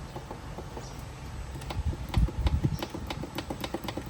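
A run of clicks from buttons being pressed on an Electrolux LTP15 washing machine's control panel, coming faster and louder in the second half, with a few dull knocks around the middle. The presses give no beep, because the control board's buzzer is not being driven.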